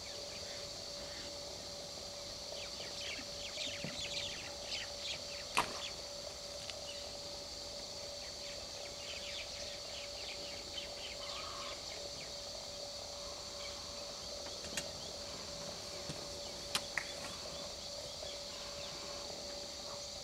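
Birds chirping in rapid bouts, about three seconds in and again around nine seconds in, over a steady hum. A few sharp clicks, the loudest about five and a half seconds in.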